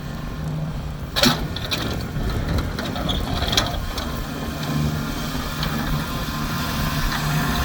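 Kubota tractor engine running steadily, with a sharp mechanical clank about a second in and a smaller one around three and a half seconds in.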